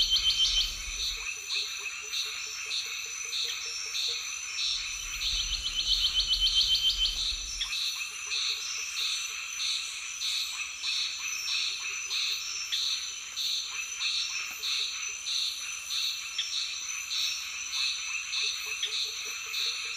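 Chorus of frogs and insects: a repeating call pulsing about one and a half times a second over a steady high drone. Two louder stretches of rapid pulsing, with a low rumble, come near the start and from about five to eight seconds in.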